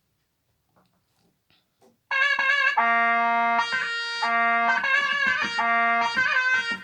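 Korg Pa600 arranger keyboard playing a mizmar (Egyptian shawm) sample voice: a short phrase of held reedy notes with brief breaks, starting about two seconds in.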